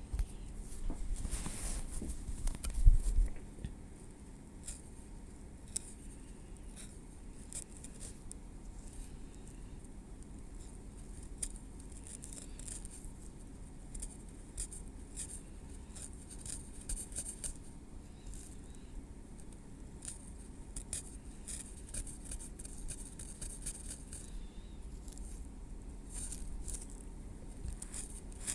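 Close-miked metal tweezers working through hair and on the scalp, giving many soft, irregular clicks, ticks and crackles. There is one louder low knock about three seconds in.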